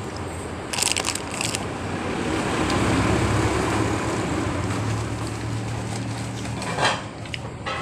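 A steady low rumble like a vehicle engine, swelling through the middle and easing off again, with a brief crackle about a second in.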